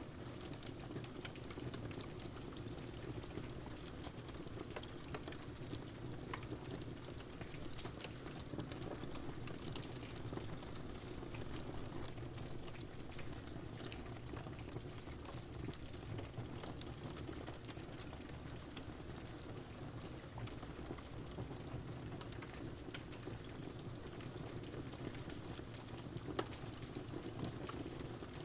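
Steady rain with a crackling wood fire: a constant hiss of rain under scattered small pops and crackles, one sharper pop near the end.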